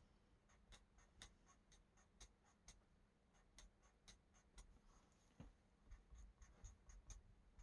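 Faint strokes of a coloring tool on a coloring-book page as small X marks are drawn, a light scratchy tick about twice a second.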